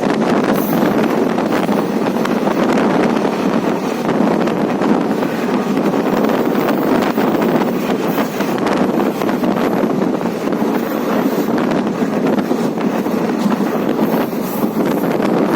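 Steady rushing wind noise on the microphone over the running noise of a moving vehicle.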